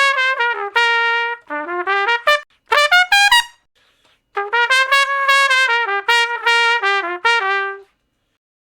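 Solo trumpet playing quick runs of short notes that step up and down in pitch, in two phrases with a pause of about a second between them.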